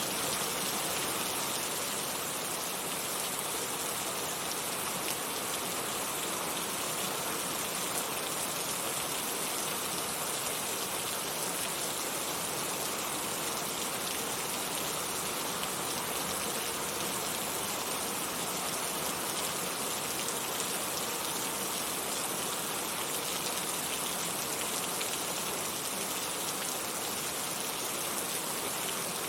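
Heavy rain falling steadily, a dense even hiss of drops with no let-up or change.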